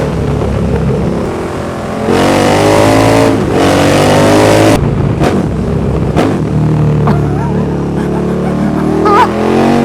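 KTM 1290 Super Duke R's V-twin running through a RaceFoxx link pipe and Pipewerx slip-on, an exhaust that sounds almost straight-through. About two seconds in it pulls hard, rising in pitch for nearly three seconds, then the throttle shuts and sharp exhaust pops follow. It picks up again near the end.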